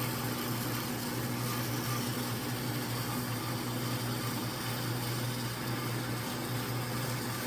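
A workshop machine or power tool running steadily, a constant low hum under an even hiss.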